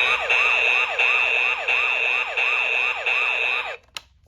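Toy State Road Rippers fire engine's electronic siren sound effect through its small speaker: a fast wail that rises and falls about three times a second over a steady, pulsing high tone. It cuts off near the end, followed by a short click.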